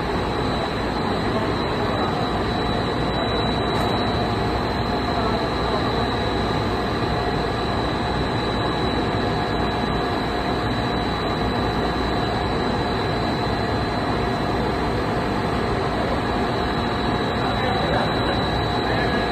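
Glass tempering furnace line running in production: a steady, unbroken rumble and rush of machinery with a constant high whine over it.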